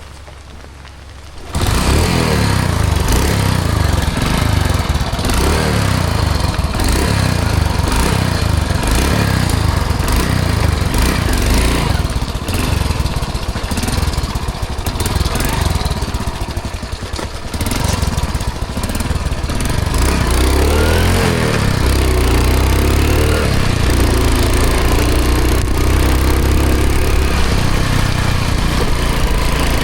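1995 Hero Honda CD100 DLX motorcycle's single-cylinder four-stroke engine running while the bike is ridden, coming in abruptly about a second and a half in. Its pitch wavers up and down around twenty seconds in.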